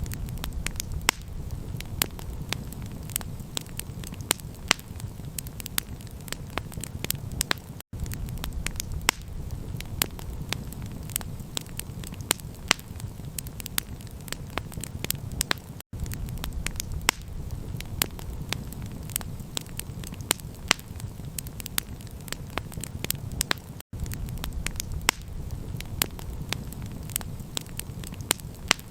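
Campfire crackling: many sharp pops and snaps over a steady low rumble from the burning fire. The sound cuts out for an instant about every eight seconds.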